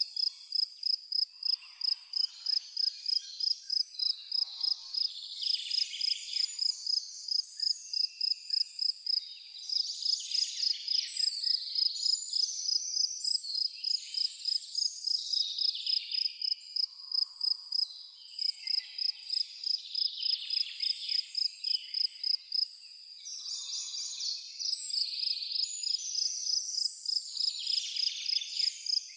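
A cricket chirping in an even rhythm, about three chirps a second, breaking off briefly near the end. Birds sing and chirp over it throughout.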